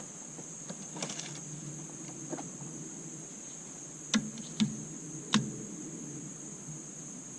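Three sharp clicks or knocks, about half a second and then a second apart, from handling tools and engine parts during the teardown, over a steady high-pitched hiss.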